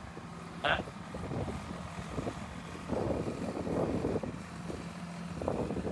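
Heavy diesel machinery engine running steadily at a low hum, with irregular louder rattling swells over it, and a brief higher sound under a second in.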